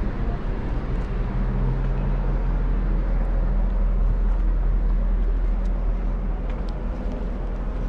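A vehicle engine running steadily, a low hum with no change in pitch.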